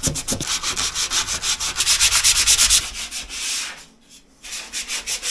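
Sandpaper rubbed over wood in quick, rapid back-and-forth strokes, pausing briefly about four seconds in before starting again.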